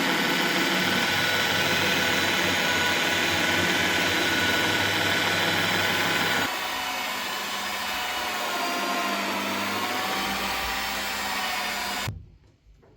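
Electric machine polisher running steadily on car paint. About six and a half seconds in the sound changes abruptly to a slightly quieter run with a whine that wavers in pitch, and it cuts off sharply near the end.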